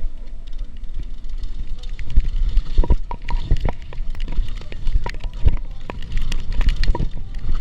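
Mountain bike clattering over a rough downhill trail: frequent irregular knocks and rattles over a constant low wind rumble on the microphone.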